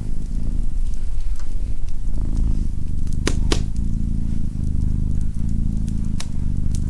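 Domestic cat purring up close: a steady low rumble that swells and eases with each breath. Sharp crackles from a fireplace fire cut through it, two in quick succession about halfway through and another near the end.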